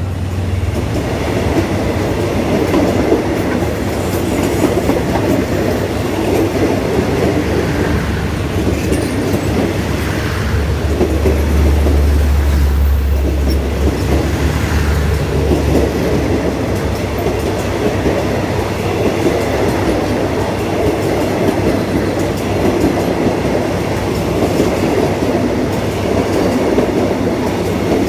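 Passenger train running along the line, its wheels rolling and clattering on the rails in a loud, steady rumble, with a stronger low hum for a few seconds around the middle.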